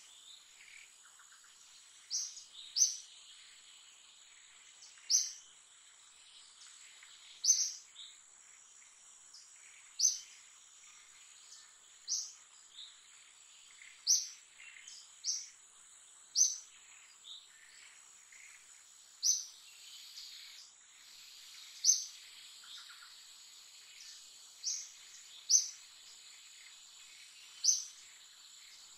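Short, sharp, high-pitched bird calls repeating about every two seconds over a steady, high insect drone.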